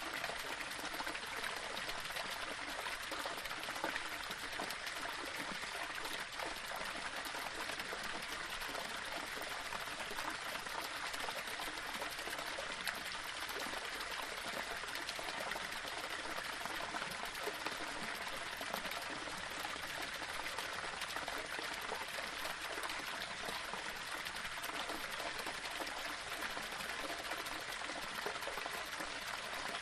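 Small waterfall splashing and trickling over stones, a steady, even rush of running water.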